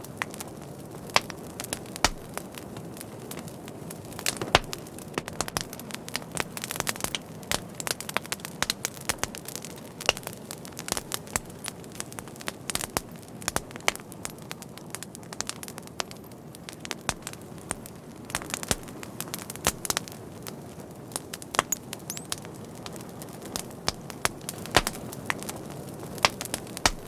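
Fire crackling: frequent, irregular sharp pops and snaps over a steady low rush of the flames.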